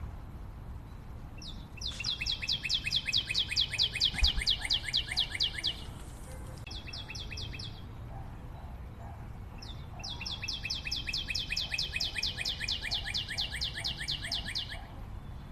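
A bird singing a fast trill of evenly repeated high notes, about seven a second, in two bouts of four to five seconds each, the first with a short extra burst after it, over a steady low background rumble.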